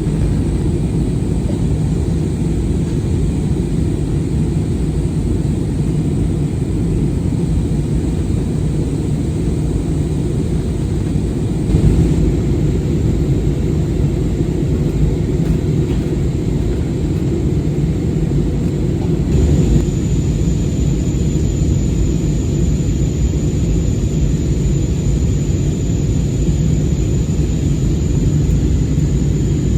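Airliner cabin noise in flight: a steady, dense rumble of engines and airflow. A faint high steady whine joins about two-thirds of the way through.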